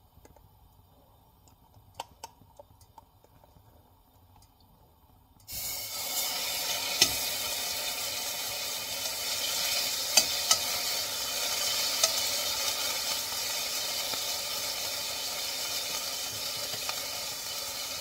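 Crushed garlic hitting hot oil in a stainless steel pot: a loud sizzle starts suddenly about five seconds in and carries on steadily as it is stirred, with a few light clicks of the utensil against the pot.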